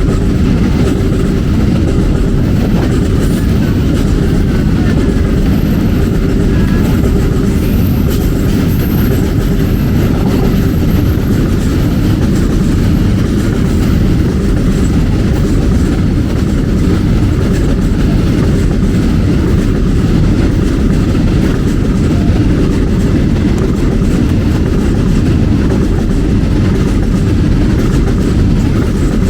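A train's cars rolling past close by, a steady loud rumble of steel wheels on the rails that holds without a break for the whole stretch.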